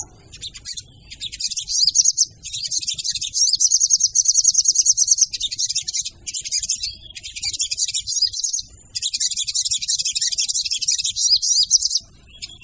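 Female sogon bird calling: long phrases of rapid, high-pitched chattering trills, broken by short pauses and stopping near the end.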